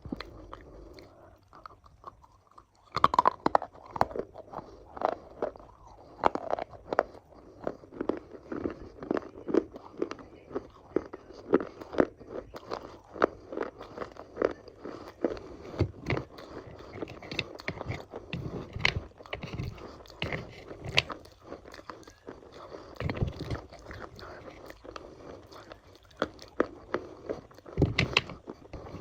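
A person bites into crunchy food about three seconds in, then keeps chewing it with repeated crisp crunches, a few a second.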